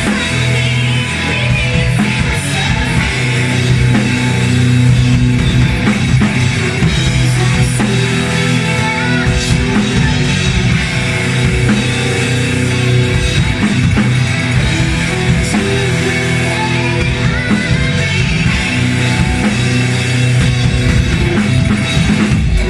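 A rock band playing live at loud volume: drum kit, electric guitar and bass, with a voice singing at times.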